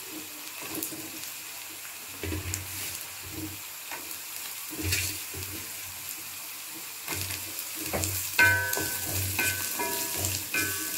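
Chopped vegetables sizzling in hot oil in a metal wok as diced carrots and beans are added and stirred in with a wooden spatula, which knocks and scrapes against the pan at irregular intervals. Near the end, a few short pitched tones sound faintly over the sizzle.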